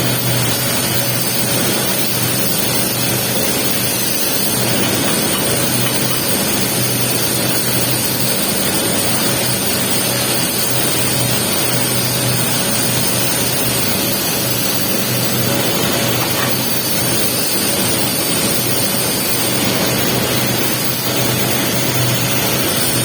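Electric welding arc running steadily while the capping pass is laid on the pipe joint: an even hissing crackle over a steady low hum.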